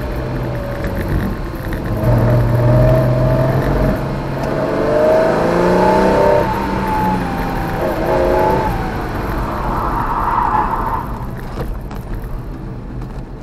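Porsche 914/6's air-cooled flat-six heard from inside the cabin, revving hard under load; its pitch climbs and falls back several times with the gearchanges and throttle lifts.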